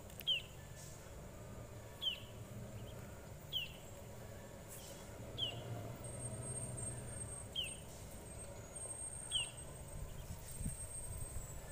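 A bird gives a short, sharp, falling call six times, one every one and a half to two seconds, over the low steady drone of a distant diesel truck engine.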